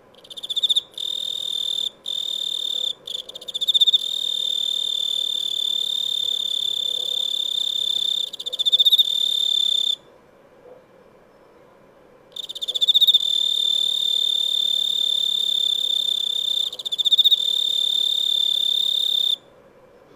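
A cricket trilling: a loud, steady, high-pitched song sustained for several seconds at a time. It breaks briefly a few times at the start, stops for about two seconds midway, then resumes and stops shortly before the end.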